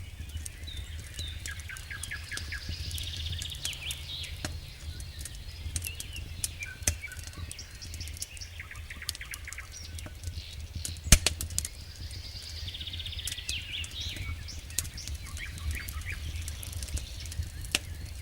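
Wood fire burning in a fireplace: logs crackling with irregular sharp pops, a loud pop about eleven seconds in, over a steady low rumble of the flames.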